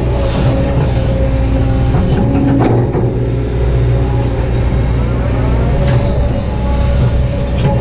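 Kobelco SK200-8 excavator's diesel engine running steadily under load, with a hydraulic whine that rises and falls twice as the machine works. There is a short knock a little under three seconds in.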